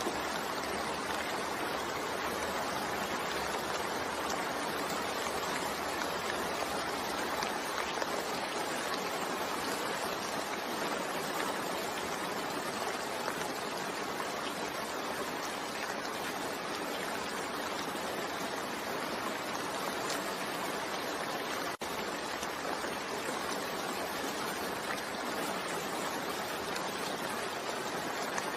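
Steady rain falling, an even continuous hiss with no breaks in rhythm, interrupted only by a momentary dropout about three quarters of the way through.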